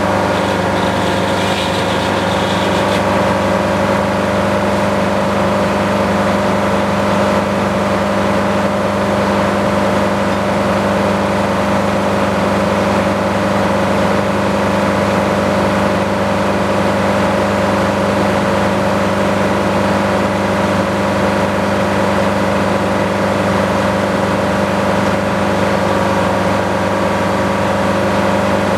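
Sawmill engine running steadily at a constant pitch.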